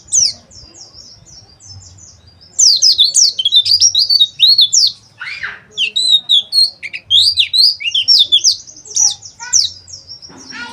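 White-eyes (pleci) twittering and chirping rapidly in high-pitched notes. The singing is faint at first, then turns loud and dense about two and a half seconds in. This is the rapid chattering song that pleci keepers call ngeriwik.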